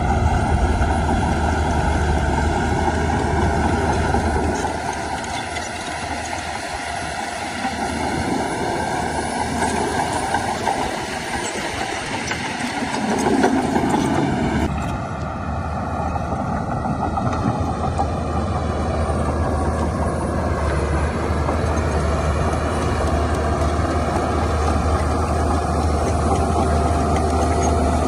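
Heavy diesel earthmoving machinery working: a continuous engine drone with a deep hum and rattling clatter, swelling louder for a moment about halfway through.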